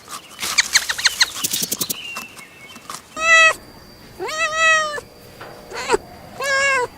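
Domestic cat meowing four times, starting about three seconds in, the calls of varying length. A rapid run of clicks comes before them in the first two seconds.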